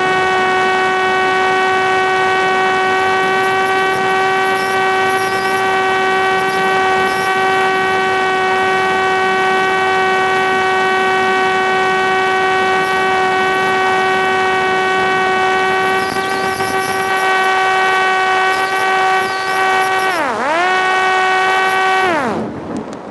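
Parrot Disco fixed-wing drone's electric motor and pusher propeller running at a steady pitch. About twenty seconds in, the pitch dips sharply and comes back up. Near the end the motor winds down and cuts off.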